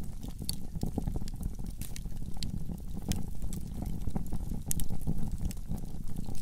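Wood fire in a fireplace crackling: irregular sharp pops and snaps over a low steady rumble of the flames.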